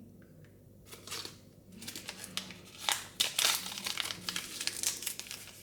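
Crinkly plastic packaging of a Mini Brands surprise toy being handled and opened: a few light clicks, then continuous crinkling and rustling from about a second in.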